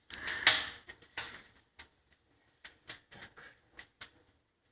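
Firewood crackling in the open firebox of a freshly lit fireplace insert: irregular sharp pops and snaps, a louder pop about half a second in and a quick run of smaller ones toward the end.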